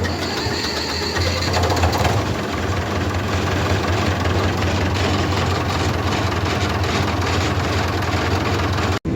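Tractor's diesel engine running steadily with a low, even hum; it drops out for a moment near the end.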